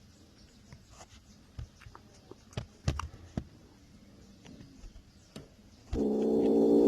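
Faint scattered taps and scuffs, then about six seconds in a kitten starts a loud, steady growl.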